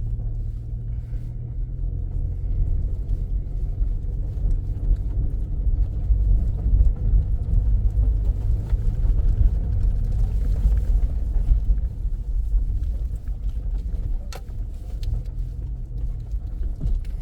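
Car driving slowly, heard from inside the cabin: a steady low engine and road rumble, with a brief faint knock about fourteen seconds in.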